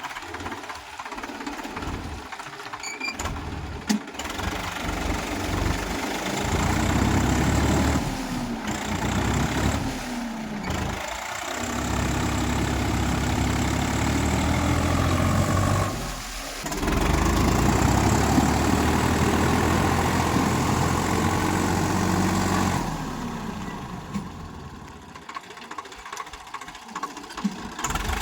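Swaraj 744 XT tractor's three-cylinder diesel engine running, its pitch rising and falling as it is revved up and down again and again, then settling quieter near the end.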